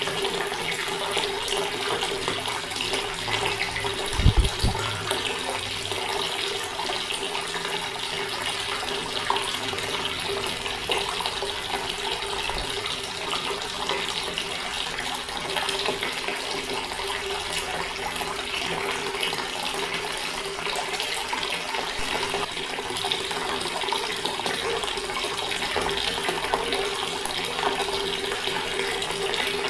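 Water running steadily from a tap. There is a brief low thump about four seconds in.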